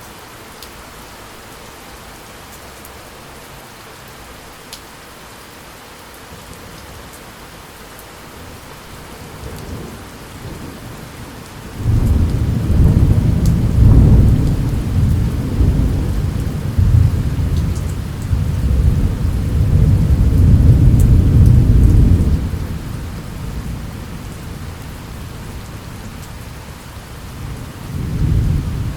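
Steady rain falling, with a long roll of thunder that starts to build about a third of the way in, breaks loud and stays deep and rumbling for about ten seconds before fading, and a shorter rumble of thunder near the end.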